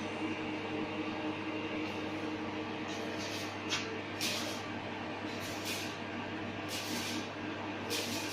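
Steady machine hum with several short bursts of hissing, like compressed air, starting about three seconds in.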